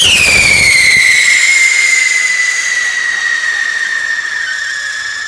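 Whistling firework from a firework cake: one long shrill whistle that drops in pitch over the first second, then holds nearly steady, sinking slowly, and stops near the end.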